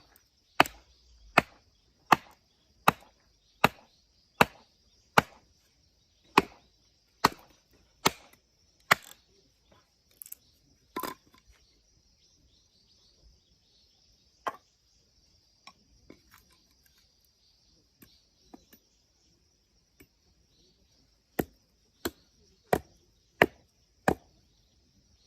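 Repeated strikes of a blade into firewood being split, about one every three-quarters of a second for the first nine seconds, then a few scattered lighter knocks, then another quick run of four strikes near the end; the piece is not splitting.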